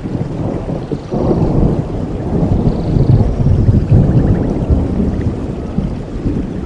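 Thunder rumbling over steady rainforest rain: a low roll builds about a second in, is loudest around the middle, then eases off.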